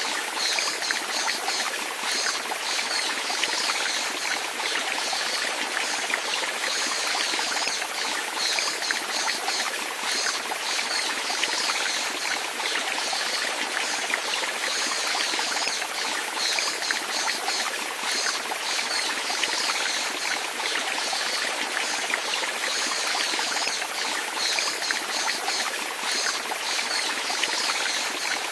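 Running water trickling and splashing steadily, with a continuous flickering bubbling at the top of the sound.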